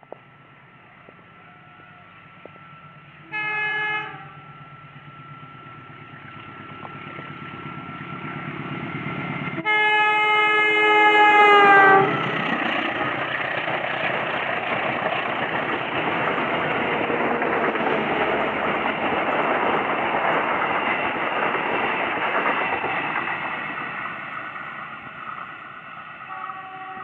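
Passenger train passing at speed: the locomotive sounds a short multi-tone horn blast about three seconds in, then a longer, louder blast about ten seconds in whose pitch drops as it goes by. The carriages then rush past on the rails, the noise fading near the end.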